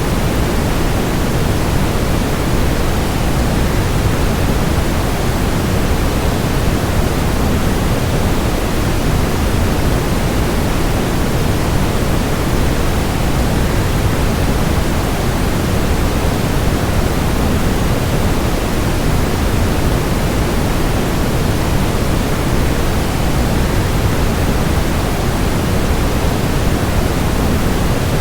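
Waterfall noise: a steady, even rush of falling water that does not change, fullest in the low end.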